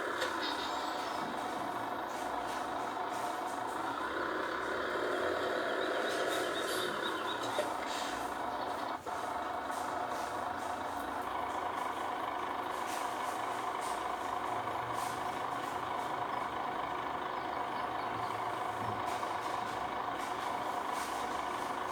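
A heavy engine running steadily. Its sound swells for a few seconds around four to seven seconds in, then settles back to an even drone.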